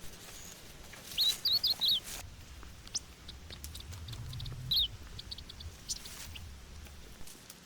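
Small bird chirping: a quick run of wavering high chirps about a second in, another short chirp near five seconds, and scattered faint ticks between them.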